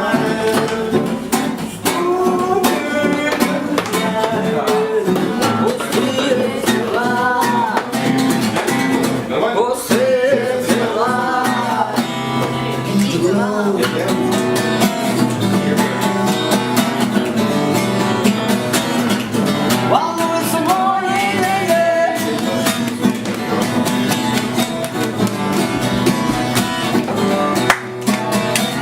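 Live band music led by guitar, playing continuously between sung lines of a song.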